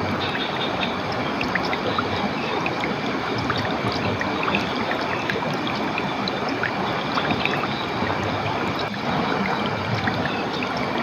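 Running water splashing and trickling steadily, with many small splashes and drips through it.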